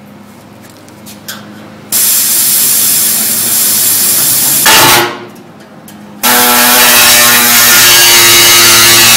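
Power tool cutting the sheet metal of a car's rear body panel in abrupt runs: a loud hissing cut starting about two seconds in, a short burst near five seconds, then a steady whining run from about six seconds.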